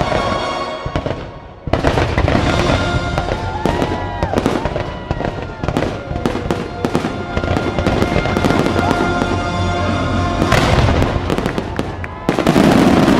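Fireworks finale: a dense barrage of bangs and crackles over the show's music, starting suddenly under two seconds in.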